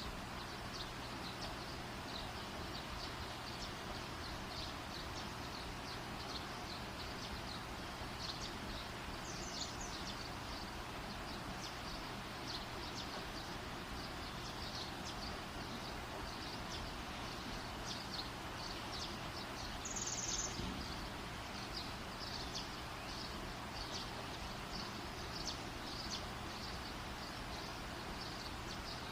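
Wood fire burning: a steady hiss under frequent small crackles, with a slightly louder crackle about twenty seconds in.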